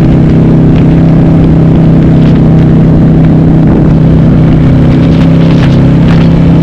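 Harley-Davidson Sportster's 1200 V-twin engine running loud and steady at a constant speed through a Cobra Speedster 909 exhaust with the dB killers removed.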